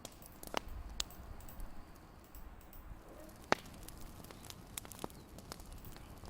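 Wood fire crackling: irregular sharp pops and snaps over a low rumble, the loudest pop about three and a half seconds in.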